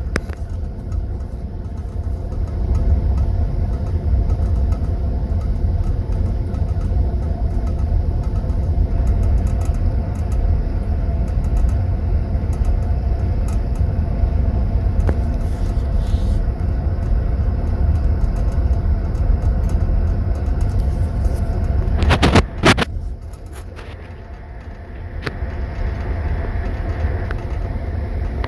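Passenger train's sleeping-car compartment: the steady low rumble of the carriage running on the rails. About 22 seconds in there is a short cluster of sharp knocks, after which the rumble is briefly quieter.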